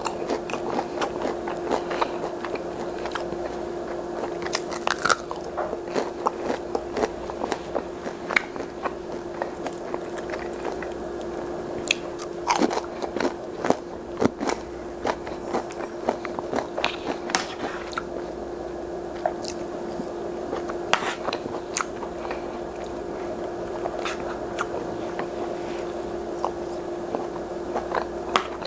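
Close-miked biting and chewing of breaded fish sticks and peas, with many irregular crisp crunches. A steady low hum runs underneath.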